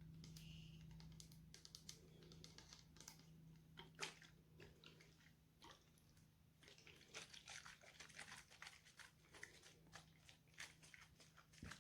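Hair being brushed and handled close to a microphone: quiet, dense crackling and scratching strokes, busiest in the second half, over a faint steady low hum.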